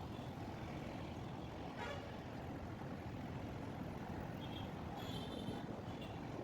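Steady rumble of road traffic and vehicle noise, with a few faint, brief high-pitched tones, like distant horns, about four to five seconds in.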